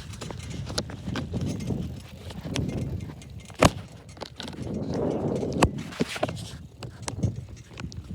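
Rattling and knocking of a bicycle being ridden, with the handheld camera jostled, over a low rumble of the ride; the sharpest knocks come a little past the middle.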